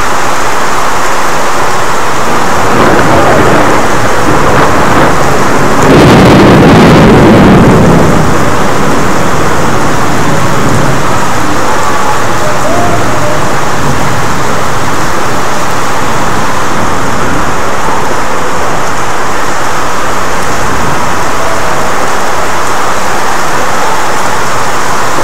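Rain falling steadily on garden plants and pots, with a louder low rumble of thunder about six seconds in that lasts about two seconds.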